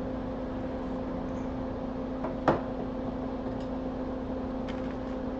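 Steady electrical hum from running workbench equipment, with one sharp click about two and a half seconds in.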